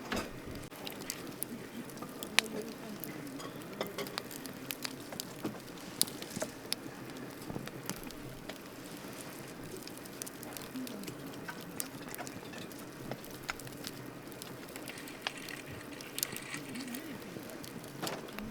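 Wood campfire crackling: irregular sharp pops and snaps over a steady low hiss of burning, with the loudest pops about two and six seconds in.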